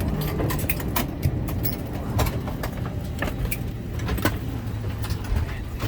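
Airliner cabin at the gate: a steady low hum with scattered sharp clicks and knocks as passengers unbuckle and get up to leave.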